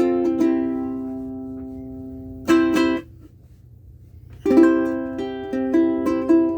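aNueNue UC-110 Green Bird mahogany ukulele with Green Planet strings, played solo: a chord rings and fades, two quick strums are stopped short, and after a pause of about a second and a half the playing picks up again with a run of notes and chords.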